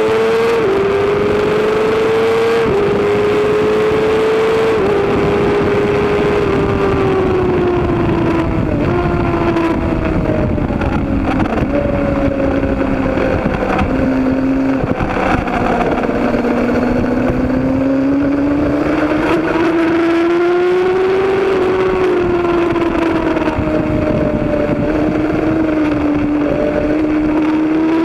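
Suzuki GSX-R sport bike engine running hard on a road course. The revs climb and drop back several times in the first five seconds with gear changes, fall away through the middle, then build again.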